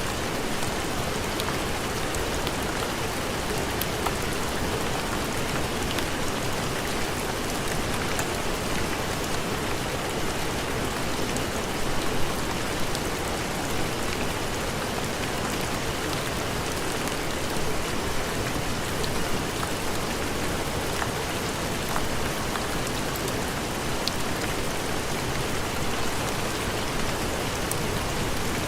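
Steady heavy rain falling in an even hiss, with scattered small ticks and pops through it.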